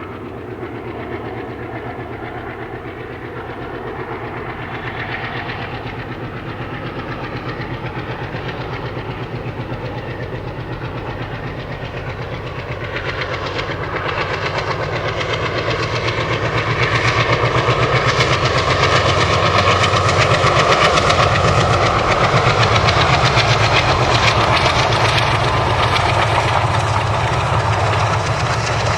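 MLW diesel-electric freight locomotive passing with its train, its engine running under load and the wheels clicking over the rail joints. The sound grows steadily louder as it approaches, is loudest in the second half, and a high steady tone rides over it there.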